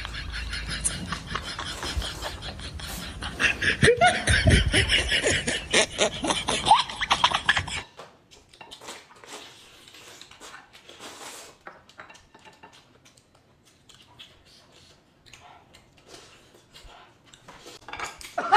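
Close-up mouth sounds of eating: rapid chewing, smacking and sucking, with brief vocal noises mixed in during the first eight seconds. After a sudden drop the sounds turn much fainter and sparser.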